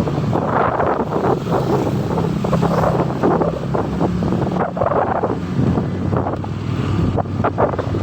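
Motorcycle engine running while riding, a steady low hum under heavy wind buffeting on the microphone. The engine note drops lower a little past the middle.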